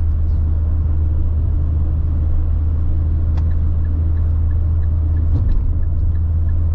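A Fiat Linea driving on a highway: steady engine and tyre rumble, with a couple of faint ticks partway through.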